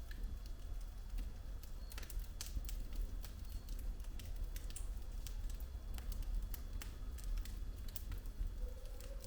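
Wood fire burning in a fireplace: logs crackling with irregular sharp pops over a low steady rumble of the flames.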